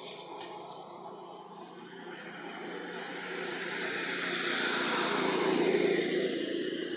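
A motor vehicle passing by: its engine hum and road noise build to a peak about six seconds in, then fall away.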